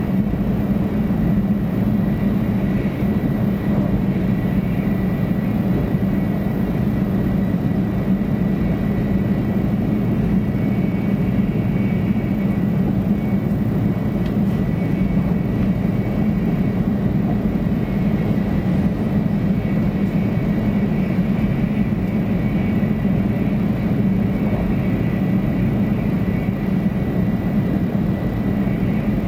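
Steady running noise heard inside the passenger cabin of a 500 series Shinkansen train: a constant low rumble with a faint high whine above it.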